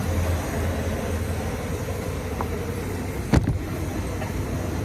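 Steady vehicle running noise, a low hum under an even rush, with a single sharp click about three and a half seconds in.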